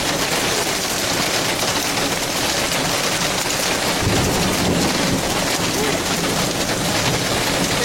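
Heavy rain pouring steadily. A low rumble of thunder comes in about four seconds in.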